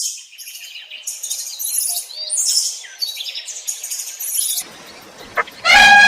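A songbird chirping and twittering in quick, high notes for about four and a half seconds. Just before the end a loud, steady horn-like blast begins.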